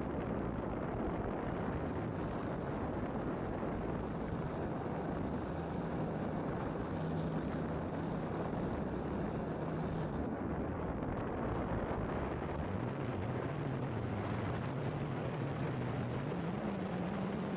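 Engine of a flying model aircraft droning, its pitch wavering and rising near the end, over steady wind noise on the microphone.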